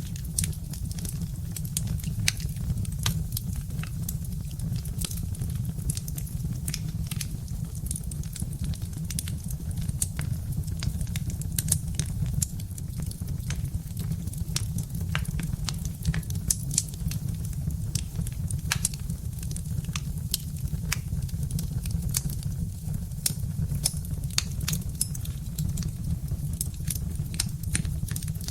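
Birch-log fire crackling: frequent, irregular sharp pops and snaps over a steady low rumble.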